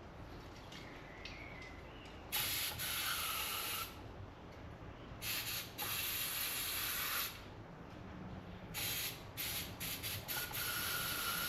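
Aerosol brake cleaner sprayed in hissing bursts onto a motorcycle brake master cylinder to clean it: two long squirts, then a run of short ones and a last longer one near the end.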